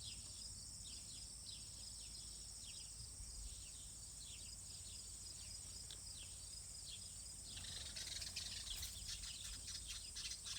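Small wild birds calling: a run of short falling chirps, turning into louder, busier chattering about eight seconds in, over a steady high-pitched insect drone.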